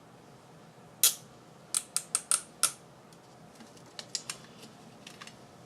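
Sharp clicks and snaps from handling small craft tools: one loud click about a second in, five quick ones close together, then fainter scattered clicks.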